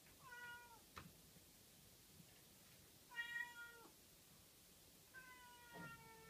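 Kitten meowing three times in high, thin calls: a short falling mew, a second one about three seconds in, and a long drawn-out cry near the end. A single sharp click about a second in.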